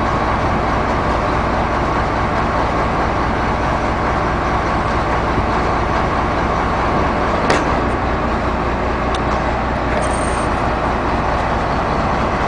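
1991 Ford F800's rebuilt six-cylinder diesel engine running steadily with the PTO engaged, powering the boom hydraulics. A sharp click comes about seven and a half seconds in.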